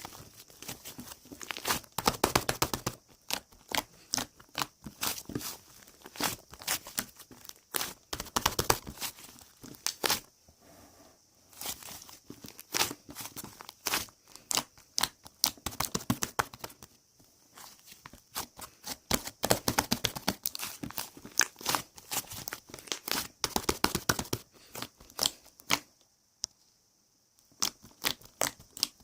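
Fluffy slime being stretched, folded and pressed by hand, crackling and popping in repeated bursts of rapid clicks with short pauses between.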